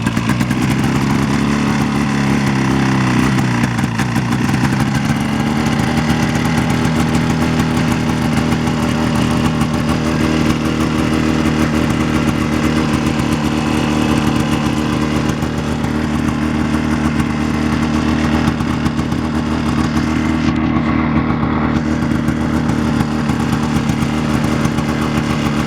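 Twin-cylinder 399cc JLO two-stroke snowmobile engine running just after a cold start on choke. Its revs rise and fall over the first few seconds, then it settles into a steady idle.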